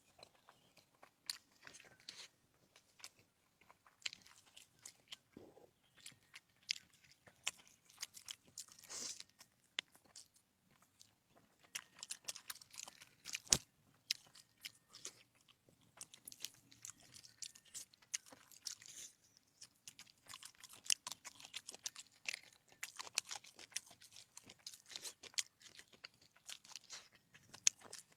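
Crisp crunching and chewing of food, an irregular run of sharp bite clicks with one louder snap about halfway through.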